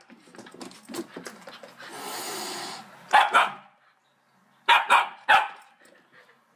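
A dog barking: one bark about three seconds in, then three quick barks about two seconds later.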